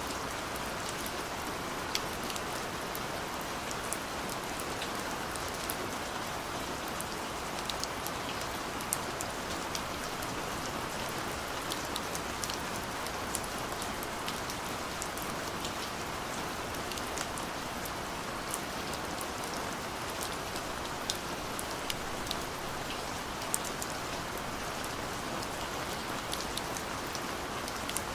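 Steady rain falling, an even hiss with the sharp ticks of individual drops landing scattered through it.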